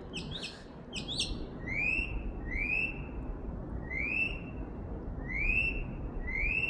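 Northern mockingbird singing: a few quick, jumbled notes, then one rising, slurred whistle repeated about five times, roughly once a second.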